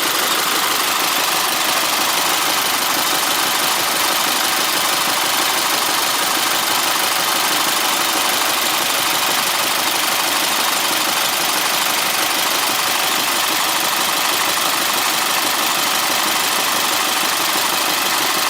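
Isuzu Elf truck's 4,770 cc diesel engine idling steadily, with no change in speed.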